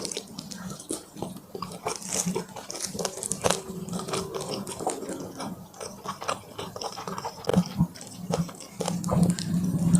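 Close-miked eating: biting and chewing crunchy food, with irregular crisp crunches and wet mouth sounds.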